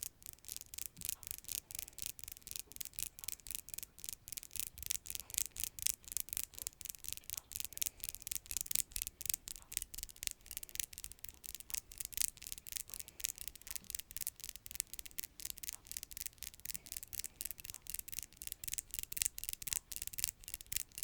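Fingernails making ASMR nail sounds: quick, crisp scratching and tapping strokes, several a second, kept up steadily.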